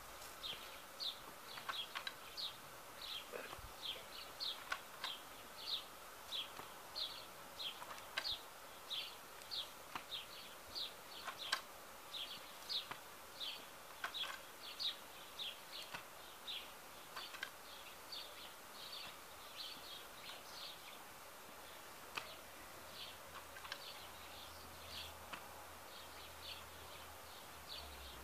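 A small bird chirping over and over, faint short high chirps about twice a second, with a few faint clicks among them.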